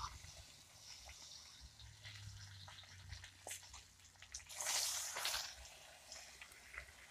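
Pork chop frying in a pan: a faint crackling sizzle with scattered pops, swelling to a louder hiss for about a second past the middle.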